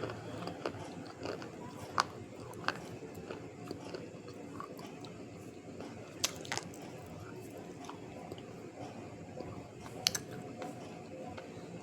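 A person biting and chewing something hard and crunchy, with a few sharp crunches: about two seconds in, again near three, a pair around six and a half, and one near ten seconds.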